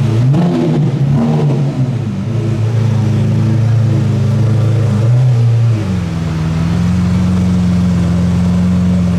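A car engine running, revved briefly about half a second in, then holding a steady note that shifts to a different pitch about six seconds in.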